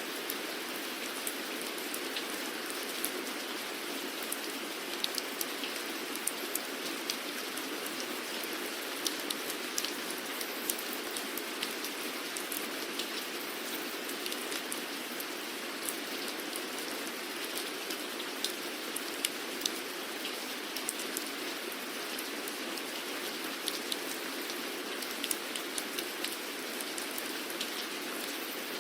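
Steady rain falling on a surface, an even hiss of rainfall with many scattered, sharper individual drop ticks throughout.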